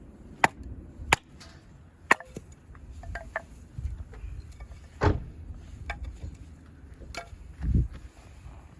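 A series of sharp chopping strikes, about five, unevenly spaced, followed by a duller low thump near the end.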